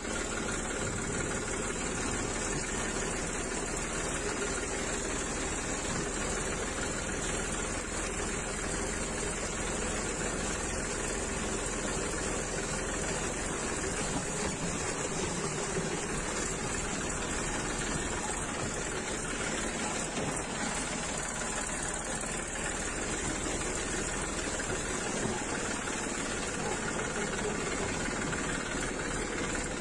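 Massey Ferguson 241 tractor's three-cylinder diesel engine running steadily.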